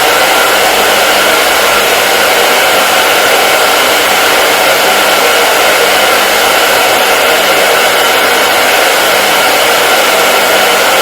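Electric hair dryer running steadily: a loud, even rushing of fan and airflow with a faint steady motor whine and no change in speed.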